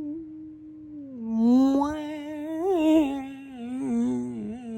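A woman humming a wordless tune: one held note, then from about a second in a lower, wavering melody with vibrato.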